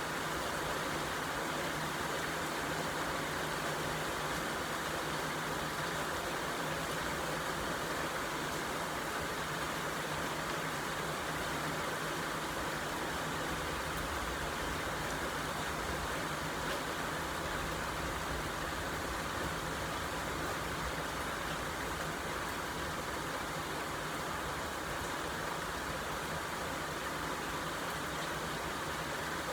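Steady rain falling, an even hiss with no breaks, over a steady low hum.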